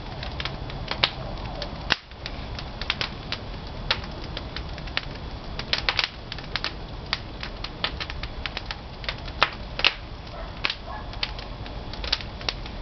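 Pine firewood crackling and popping as it burns in a traditional wood-fired kiln, with sharp irregular pops several times a second over a steady low rumble.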